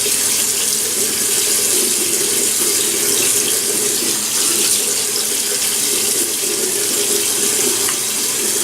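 Water running steadily from a tap into a sink, used to wet the face before shaving.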